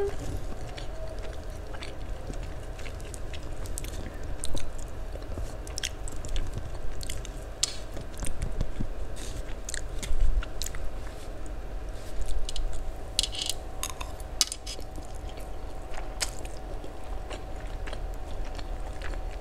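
Close-miked chewing and mouth smacking of fried noodles, with short sharp clicks of a metal spoon and fork against the plate, busiest about two-thirds of the way through. A steady low hum runs underneath.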